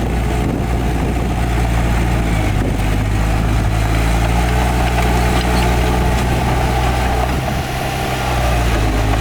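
Heavy earthmoving machine's diesel engine running steadily, its level dipping briefly about seven and a half seconds in before picking up again.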